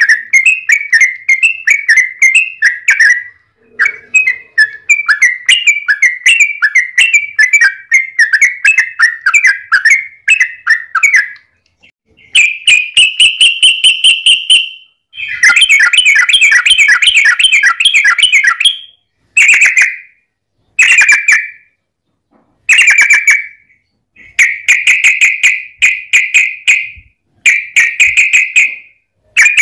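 Yellow-vented bulbul (trucukan) singing loud, rapid chattering phrases: one long run of quick notes for about eleven seconds, then a series of shorter bursts with brief pauses between them.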